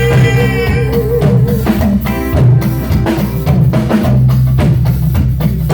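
Live praise-band music: a drum kit with bass drum and snare keeps a steady beat over a low bass line, between sung lines of a Yoruba praise song.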